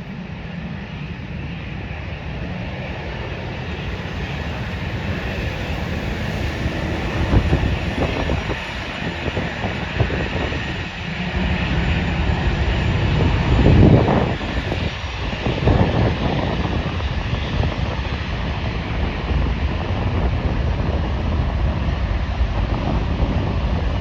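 Jet airliner engines running, a rumble with a steady whine that grows louder through the first half. Gusts of wind buffet the microphone a few times around the middle.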